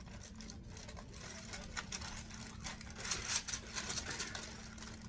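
Parchment paper crinkling and rustling in irregular bursts from about a second and a half in, as it is peeled back off a sheet of rolled-out ground meat.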